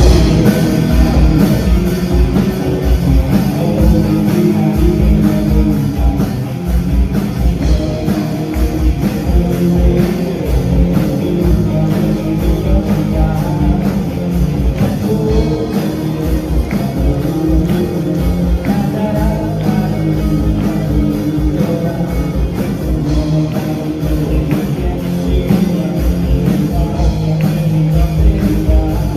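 Live rock band playing a song, with a drum kit keeping a steady beat under electric guitars, bass and keyboard.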